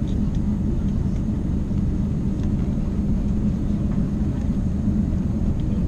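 Steady low rumble and hum inside the economy cabin of an Airbus A350-900, holding even throughout.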